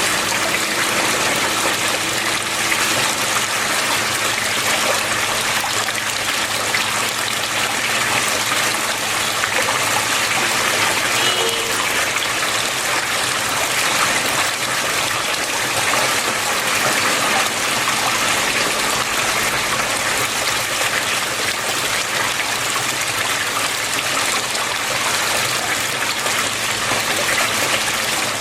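Water flowing steadily, an even, unbroken rush and trickle.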